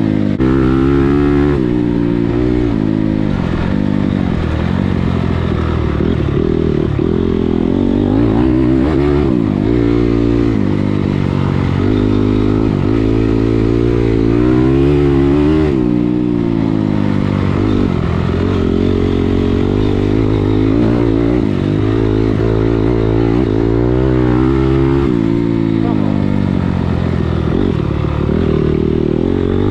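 Dirt bike engine being ridden hard, its pitch rising and falling over and over as the throttle is opened and closed through the gears.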